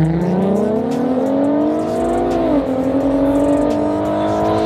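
Two cars launching from a standing start in a street drag race and accelerating hard, engine pitch climbing, with an upshift about two and a half seconds in before the pitch climbs again.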